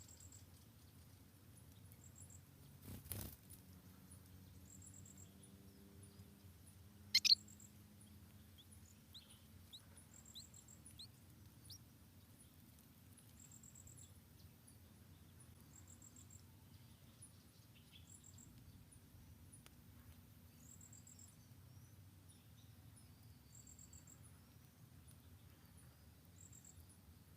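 Faint forest ambience: insects chirping in short high bursts repeating every second or two, a single knock about three seconds in, and one sharp bird chirp about seven seconds in, the loudest sound, followed by a few faint scattered chirps.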